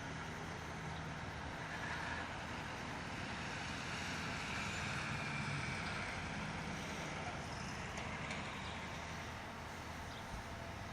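Fire engine running on the road: a steady engine drone with tyre and road noise, growing slightly louder in the middle.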